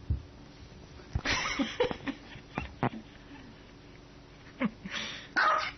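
Small white dog barking in short, harsh calls, the loudest about a second in and near the end, with a few softer calls and sharp taps between.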